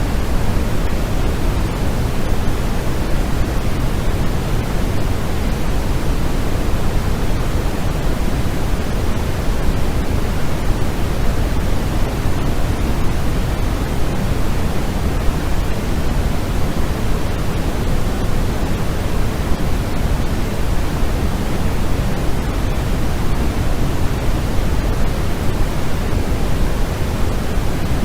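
Steady white noise for sleep: an even, unchanging hiss with no pattern, heavier in the low end than the high.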